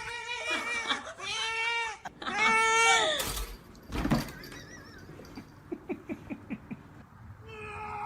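Cat meowing twice, two long calls that rise and fall in pitch, followed by a sharp knock about four seconds in.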